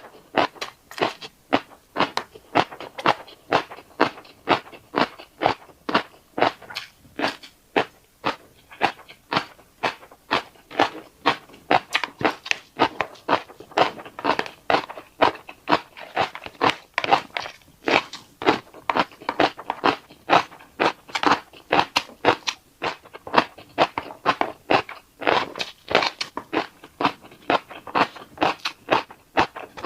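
Close-up eating of fish roe: chewing with the eggs popping and crunching, a steady, rapid run of sharp clicks, about three a second.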